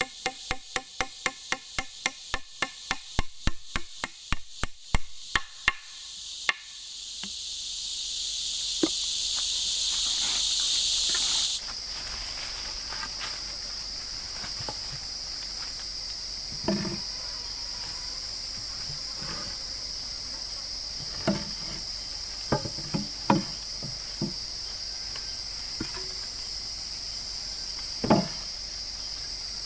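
Rapid, evenly spaced strikes, about four a second, from someone chopping or hammering wood for the first six seconds. Then a loud, high insect buzz swells and cuts off suddenly, leaving a steady rainforest insect chorus with a few scattered knocks.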